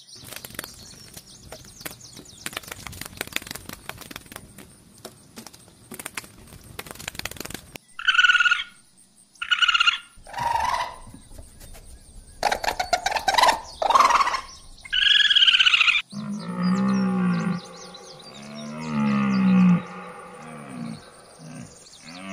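Animal calls. Several seconds of dense crackling clicks give way to a run of short, high calls, then to repeated low, drawn-out calls that rise and fall in pitch.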